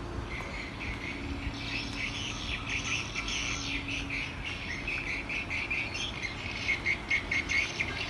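Birds chirping in quick, repeated high calls that start about a second and a half in and are loudest near the end.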